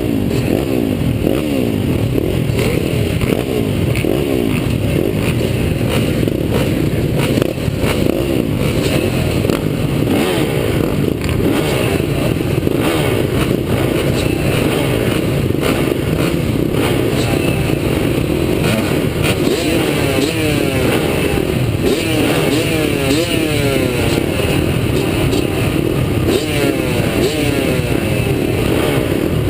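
Several motocross bikes running on a track, their engines revving up and falling off over one another as the riders accelerate and shift.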